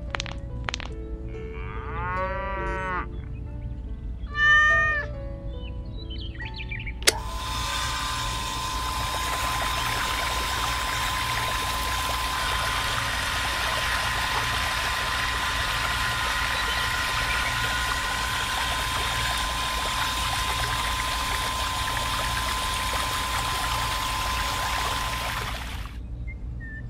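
Miniature electric water pump switched on with a click about seven seconds in, then running steadily with a constant hum and the hiss and splash of water pouring from its outlet pipe, cutting off near the end. Before it starts, a few short animal calls, one louder than the rest.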